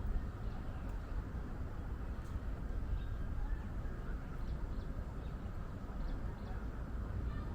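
Outdoor walking ambience: a steady low rumble on the microphone with a few faint, short high chirps.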